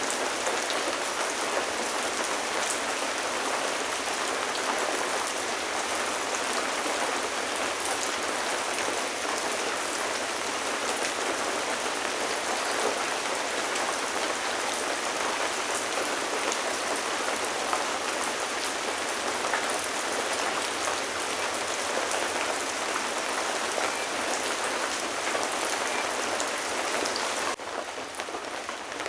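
Steady rain falling, with single drops ticking through the hiss. About 27 seconds in, the rain abruptly drops to a quieter level.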